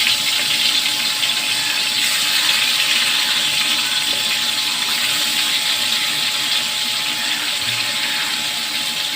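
Pieces of rohu fish frying in hot oil, a steady sizzle that eases off slightly toward the end, with a faint steady hum underneath.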